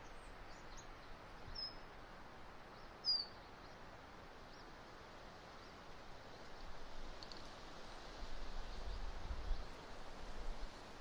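Strong wind rushing over an outdoor nest-camera microphone, with gusts buffeting it low from about eight seconds in. A few brief high chirps from a bird in the first three seconds, the loudest about three seconds in.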